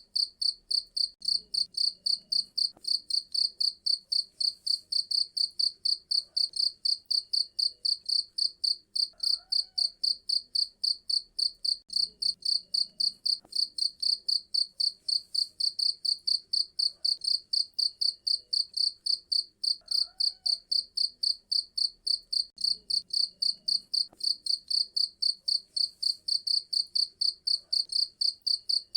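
Cricket chirping in a fast, even, high-pitched pulse, about five chirps a second, without a break. Beneath it is a faint background that repeats about every ten seconds, as from a looped recording.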